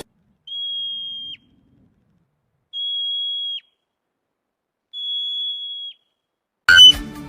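Three long, steady, high-pitched whistle tones, each about a second long and ending in a short downward dip, with dead silence between them. Loud beeping music starts near the end.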